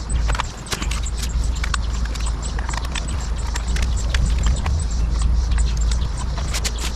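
Irregular clicks and knocks from hand-tool work, over a steady low rumble.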